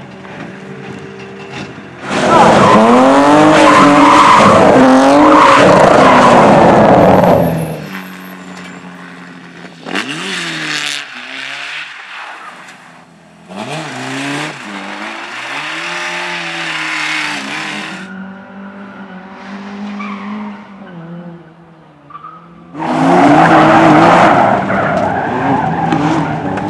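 Racing car engines revving hard, rising and falling in pitch through the gears, with tyres skidding and squealing. Loud stretches from about two to seven seconds in and again near the end.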